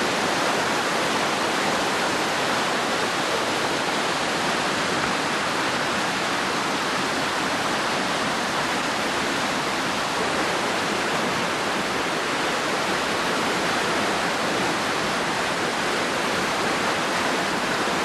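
Steady rushing roar of fast-flowing floodwater, an even, unbroken wash of noise.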